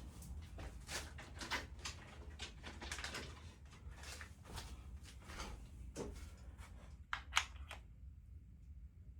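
Handwork on engine parts: irregular light clicks, taps and scrapes of metal parts and tools being handled, with one sharper click about seven seconds in, over a steady low hum.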